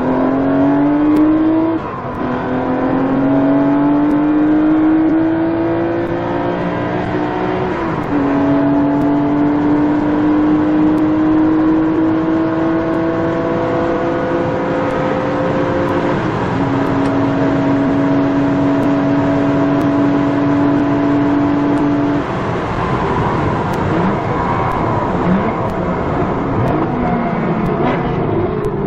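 Nissan Skyline GT-R R34's RB26DETT twin-turbo straight-six pulling under full throttle, its note climbing slowly in each gear and dropping at upshifts about two, eight and sixteen seconds in. About 22 seconds in the steady engine note falls away and a rougher, noisier sound takes over.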